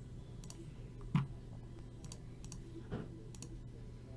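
Scattered computer keyboard and mouse clicks, in small clusters, with two louder short knocks about a second in and about three seconds in, over a steady low hum.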